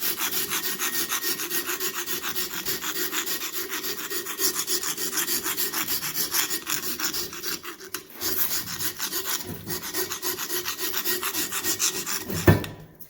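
Carbide hand scraper worked rapidly back and forth over a metal surface, scraping off gasket residue and rust: a steady rasping of about five strokes a second, with a brief break about eight seconds in and a sharp knock near the end as it stops.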